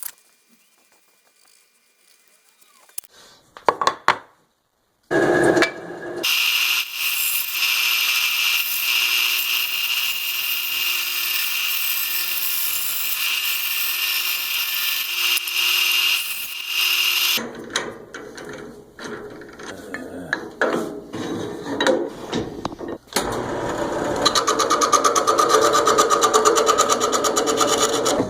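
Woodworking power tools cutting or sanding wood. After a few quiet seconds and some knocks, one tool starts about five seconds in and runs steadily for about twelve seconds. A rougher, changing tool sound follows and grows louder and more rhythmic near the end.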